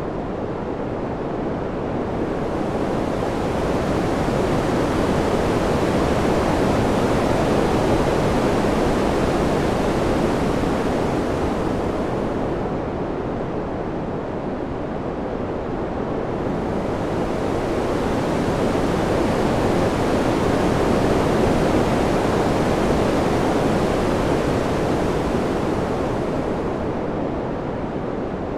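Ambient wind sound: a steady rushing noise with no tones in it, swelling and easing in two long, slow waves and getting brighter at each swell.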